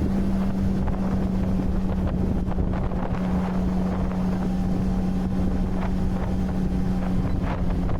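Motorcycle engine running at a steady cruising speed, a constant low drone, with wind rushing over the helmet-mounted microphone.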